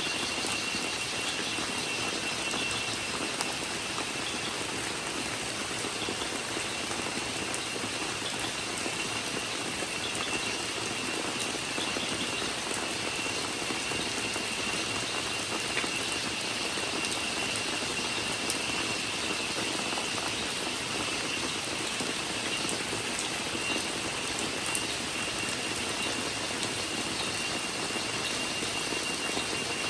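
Steady rain hiss with a continuous high-pitched cicada drone over it and scattered faint ticks of drops.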